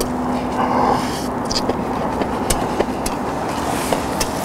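Chewing of crispy fried chicken, with a few small crunches and mouth clicks, over a steady low outdoor city rumble and a faint steady hum.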